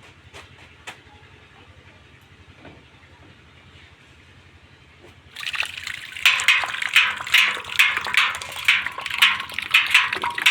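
A few faint clicks, then about five seconds in a loud rush of splashing, churning water starts suddenly and goes on in irregular surges.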